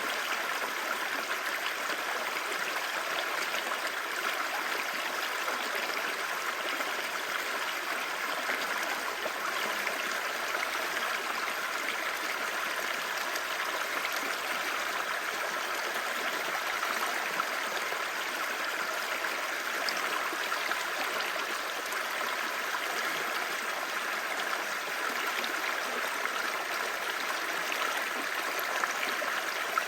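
Clear mountain stream babbling over rocks, a steady even rush of water.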